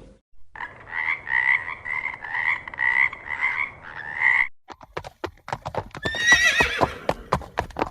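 An animal call repeated about twice a second for the first four seconds, then a horse's hooves clopping and a horse whinnying with a wavering pitch about six seconds in.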